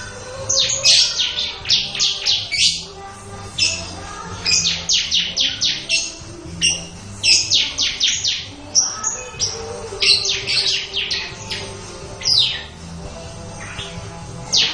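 Bar-winged prinia (ciblek) singing its rapid 'ngebren' song: quick runs of sharp, downward-sweeping notes strung together, repeated in several short phrases with brief pauses between them.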